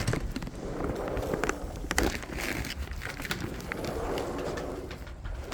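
Backyard poultry making soft, low calls, with scattered sharp clicks.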